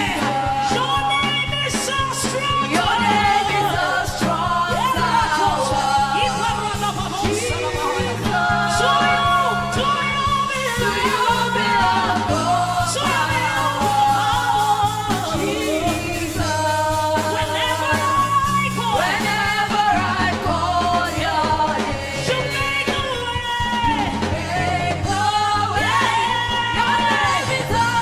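Live gospel music: a woman singing a worship song over a band backing with steady bass.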